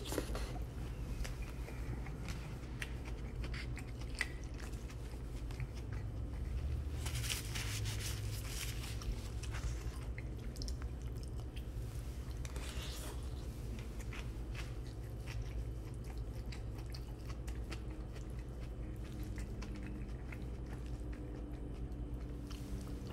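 Close-up chewing and biting of a mouthful of Chipotle steak bowl, a steady run of small wet clicks and crunches.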